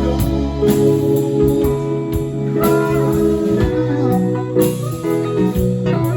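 Live band playing an instrumental passage: a lead guitar with sustained, bending notes over bass and drums.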